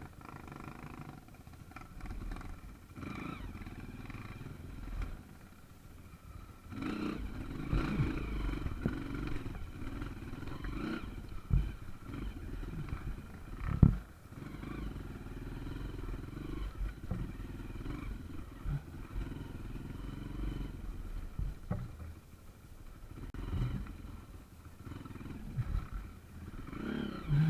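Small trail motorcycle engine running at low revs, swelling and easing off unevenly as it labours over rough ground, with scattered knocks and one sharp loud knock about halfway through.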